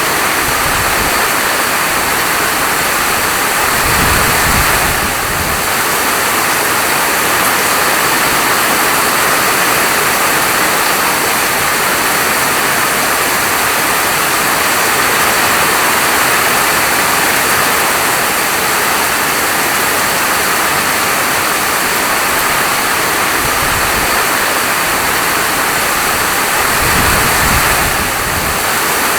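Steady heavy rain falling, a loud even hiss, with a brief low rumble about four seconds in and again near the end.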